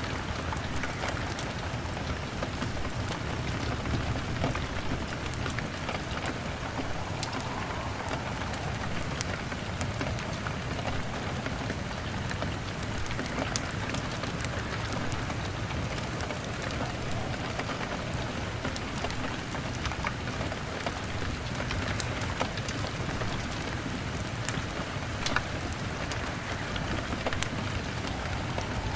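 Steady rain pattering on a window, mixed with a crackling wood fire whose scattered sharp pops and snaps sit over a low, even rumble.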